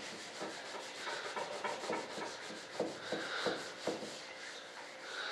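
Cloth rubbing paste wax onto a wing mold in repeated back-and-forth strokes, with a few light knocks about three and four seconds in.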